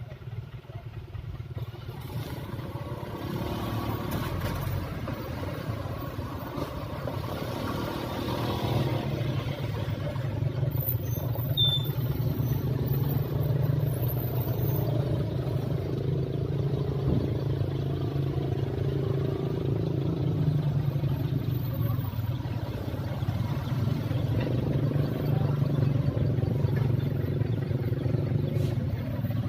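Heavy diesel dump truck engine running steadily. It grows louder over the first several seconds, then holds at a steady low rumble.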